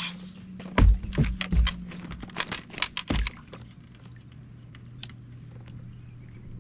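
A run of sharp clicks with several dull knocks over about two and a half seconds, starting just under a second in, then a faint steady low hum.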